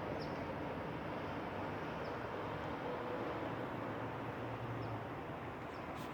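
Steady outdoor background noise with no distinct events, and a few faint, very short high chirps.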